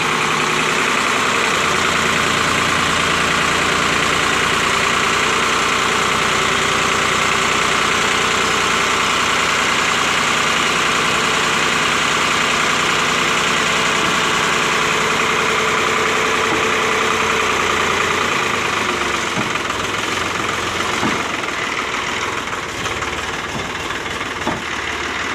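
Sonalika tractor's diesel engine running steadily, a little quieter and less even from about eighteen seconds in.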